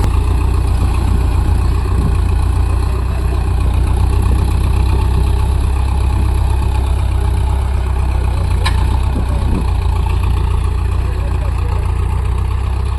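Diesel tractor engine running steadily with a deep, even hum, with one brief tick about two-thirds of the way through.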